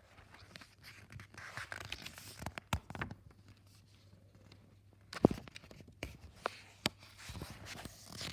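Paper rustling and handling noises, as of a picture book's page being turned, with scattered soft clicks and one sharp knock about five seconds in.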